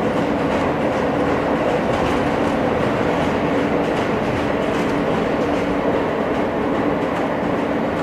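Inside an R160 subway car running between stations: the steady rumble of wheels on rail with a constant hum from the drive, holding an even speed.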